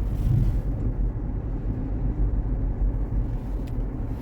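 Steady low road rumble inside the cabin of a Waymo Jaguar I-Pace electric car driving on wet streets, with a brief hiss at the start and a faint tick near the end.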